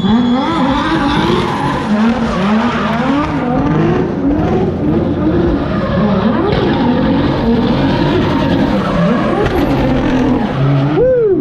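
Single-turbo Toyota 2JZ inline-six, built to about 918 horsepower, revving up and down hard as the car drifts, with tyres squealing.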